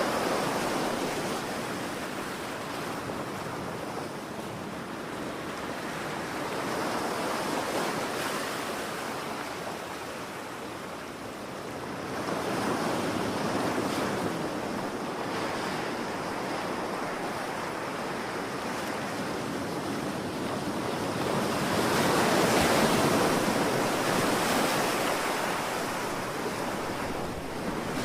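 Ocean waves breaking and washing ashore, a steady surf hiss that swells and eases as each wave comes in, the biggest about three-quarters of the way through.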